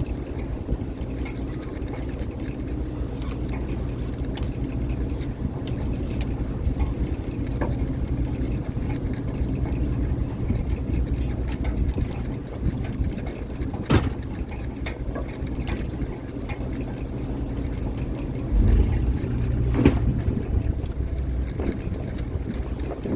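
A fishing boat's engine running steadily with a low hum. Two sharp knocks sound, one a little past halfway and one near the end, and a brief louder rumble comes just before the second.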